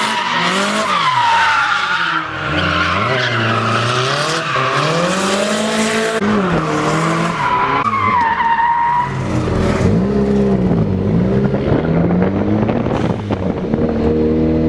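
2JZ straight-six in a Nissan 240SX on a full straight-pipe exhaust, revving up and down through a drift, with tires squealing. The squeal dies away a little past halfway, leaving the engine rising and falling.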